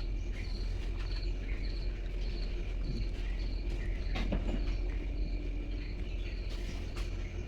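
An insect chirping in short, regular high-pitched pulses, about two a second, over a low steady rumble of wind or handling noise on the microphone.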